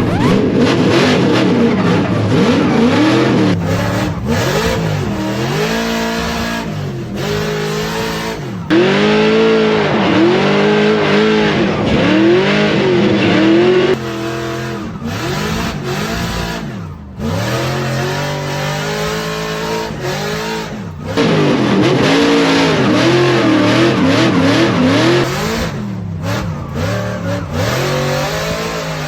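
Drift car engines revving up and down over and over as the cars slide through corners, with tyre hiss. The sound changes abruptly a few times.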